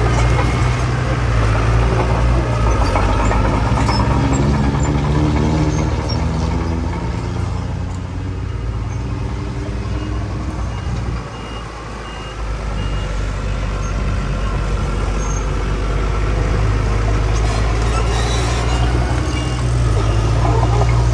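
Heavy earthmoving machinery engines working under load, their pitch shifting. The engines ease off about halfway through, then build up again. A faint reversing-alarm beep repeats in the second half.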